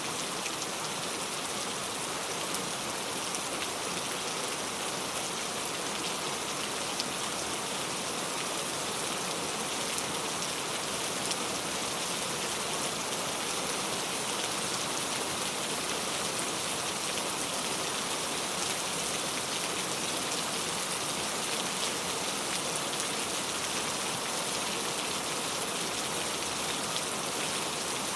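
Steady rain falling: an even, unbroken hiss flecked with many small drop ticks.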